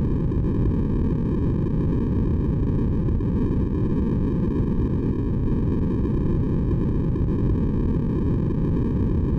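Steady white-noise track for sleep: a deep, even rush of noise that sits mostly low with little hiss, unchanging throughout.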